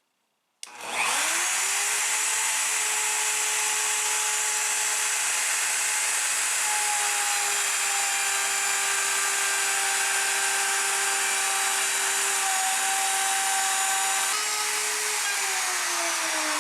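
Electric power tool motor starting up, whining up to speed within about a second and then running at a steady high pitch while cutting a pass of a rabbet in sheet goods. Near the end it is switched off and winds down with a falling pitch.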